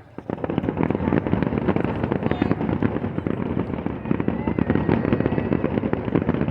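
Fireworks crackling in a dense, rapid string of pops. It starts just after a brief lull and keeps going without a break.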